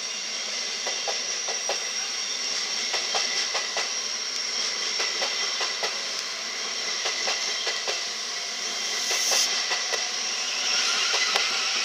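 Class 700 electric multiple unit pulling out of the station and running past close by: a steady rolling noise with irregular clicks of the wheels over the track, and a brief high hiss about nine seconds in.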